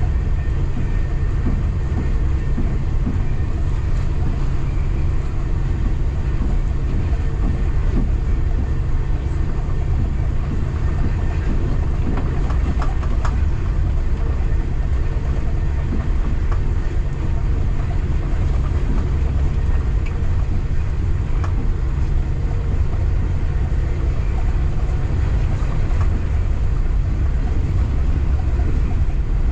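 Steady low rumble of a local passenger train running along the line, heard from aboard, with a few faint clicks and knocks from the running gear.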